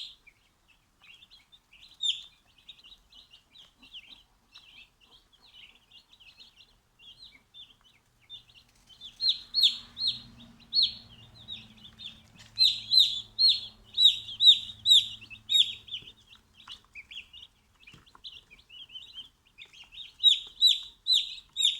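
Baby turkey poults peeping, many short, high, falling peeps in quick succession. They are loud in two runs, from about halfway through and again near the end, with softer scattered peeping between.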